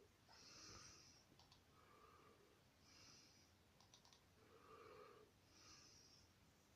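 Near silence: faint breathing close to the microphone, with a few soft computer mouse clicks.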